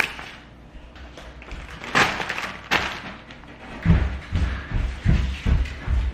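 Sharp knocks and bangs, then a quick run of heavy, low thumps about two-thirds of the way through.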